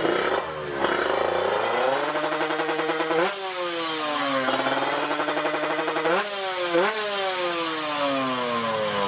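Drag-racing motorcycle engine at full throttle on a run: the engine note climbs, then twice jumps sharply and slides down in pitch.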